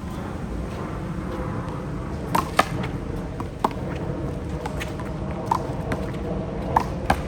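Handball rally: about six sharp smacks of the rubber ball being struck and bouncing, spaced a second or two apart, over a steady low rumble.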